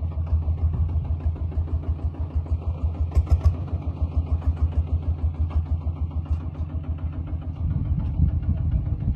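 Small tractor's diesel engine running with a steady chugging pulse of about seven beats a second. A few sharp clicks or knocks come about three seconds in.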